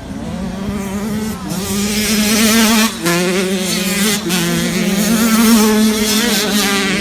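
Motocross dirt bike engine revving hard and getting louder as it comes closer, with a brief break in the throttle about three seconds in and another short dip a second later.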